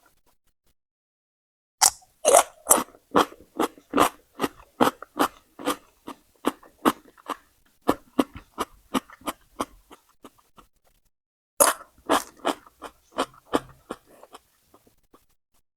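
Close-up crunchy chewing of raw vegetables: a steady run of crisp crunches, about two or three a second, that fades out. After a short pause a second bout of crunching starts, loudest at its start.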